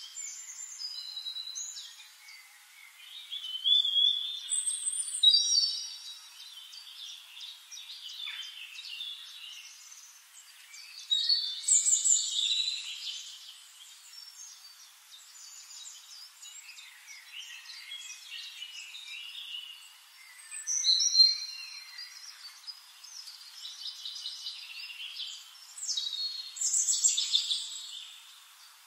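Birds chirping and singing, with short high calls and trills overlapping. They come in louder flurries every several seconds, with quieter chirping between.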